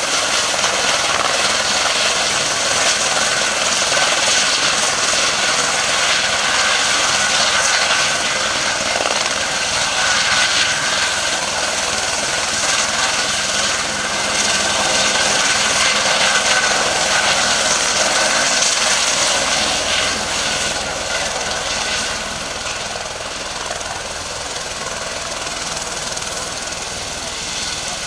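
Helicopter running close by: a loud, steady rotor and engine noise, easing off slightly about two-thirds of the way through.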